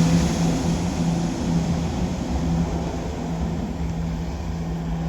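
Two coupled Class 170 Turbostar diesel multiple units passing through the station. Their diesel engines make a steady drone that slowly fades as the train draws away.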